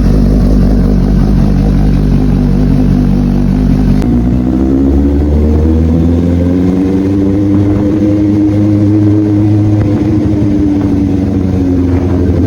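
Suzuki GSX-S750's inline-four engine idling steadily while warming up. About four seconds in the sound changes abruptly to an engine note that rises slowly and then eases back down.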